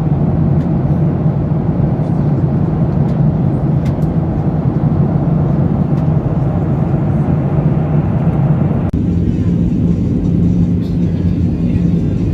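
Steady cabin drone of a Boeing 737-800 in flight: CFM56 engine noise and airflow with a strong low hum. The sound shifts abruptly about nine seconds in.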